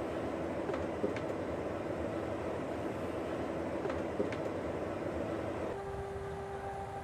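Steady vehicle running noise, a rumble with a low hum and a few light clicks. About six seconds in, the hum changes to a steadier, slightly higher tone.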